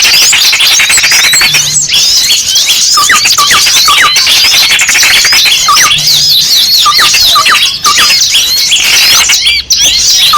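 Bird-lure recording of many small songbirds calling noisily: dense, overlapping high chirps and squeaky notes, many sweeping down in short hooks, with a rapid buzzy rattle in the first second. These are agitated small-bird calls, including those of a trapped small bird, played to draw small birds in.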